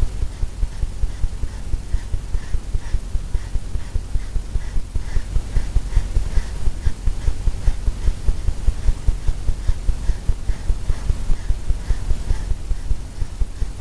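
Quick back-and-forth painting strokes across a stretched canvas while blending wet oil paint, each stroke drumming the canvas with a low thump, about three a second in a steady rhythm.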